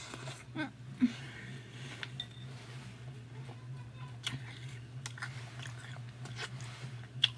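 A person chewing a mouthful of Froot Loops cereal with milk: soft, irregular crunching, with a sharper click near the end.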